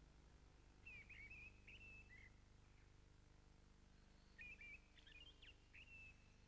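Faint birdsong: a bird sings short phrases of quick, sharply gliding notes about a second in and again from about four and a half seconds in, over a low steady hum.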